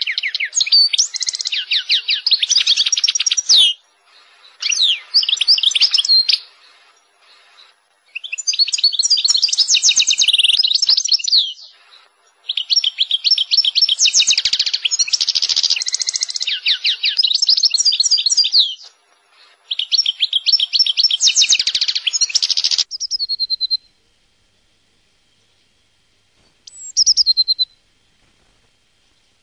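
A songbird singing long phrases of rapid, warbling trills, about five in a row with short pauses between them. The song then stops, leaving one brief call near the end.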